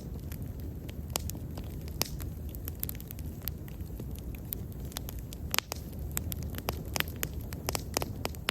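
Wood bonfire burning with a steady low rumble and irregular sharp crackles and pops, one louder pop about five and a half seconds in.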